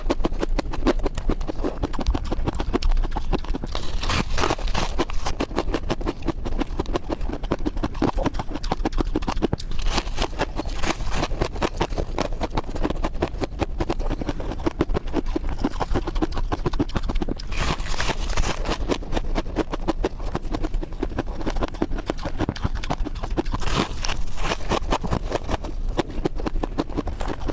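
Ice being bitten and chewed close to the microphone: a dense, continuous stream of crisp crunches, with a louder crunch every several seconds.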